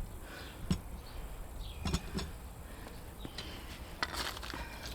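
A few faint, scattered clicks and taps of metal parts or tools being handled while a new steering tie rod end is set to length, over a low steady background rumble.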